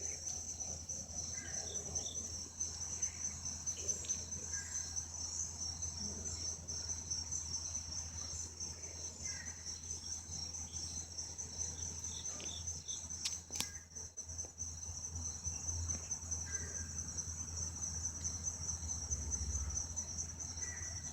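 A chorus of insects, such as crickets, keeps up a steady, high, finely pulsing trill, with a low steady hum underneath.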